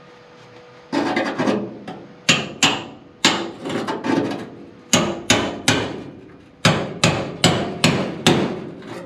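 Hammer blows on a screwdriver driven in to pry loose a stuck old steel door hinge: a run of sharp, ringing metallic strikes, about two a second in short groups, starting about a second in.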